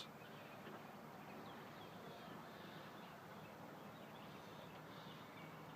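Near silence: faint outdoor background hiss with a few faint, brief bird chirps.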